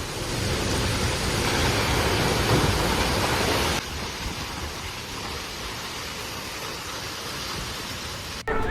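Storm wind and heavy rain making a steady rushing noise, dropping a little in level just under four seconds in. It cuts off near the end, where a steady tone starts.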